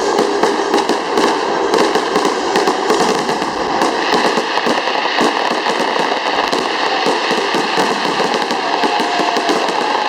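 Fireworks crackling and popping in rapid, dense succession, many sharp cracks a second without a break.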